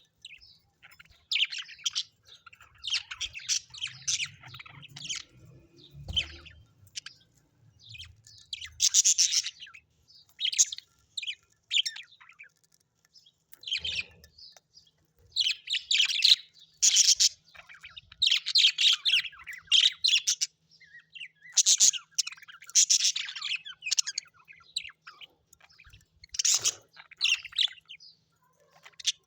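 Small birds chirping and chattering in quick, high-pitched runs of a second or two with short pauses between.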